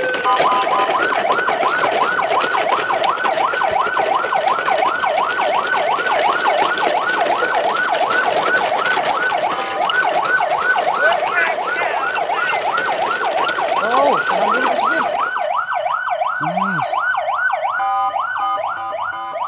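Electronic siren warbling rapidly up and down, about two to three sweeps a second, with a hiss behind it that drops away about fifteen seconds in.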